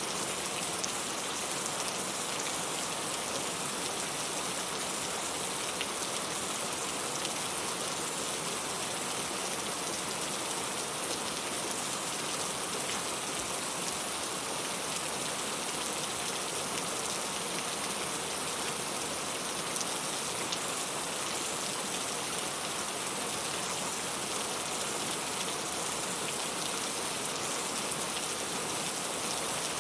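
Steady rain falling, an even hiss with fine drop ticks of rain striking a surface.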